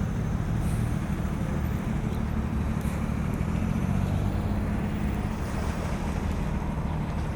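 Steady low rumble of riverside city ambience: wind on the microphones mixed with distant traffic and boat engines, holding an even level throughout.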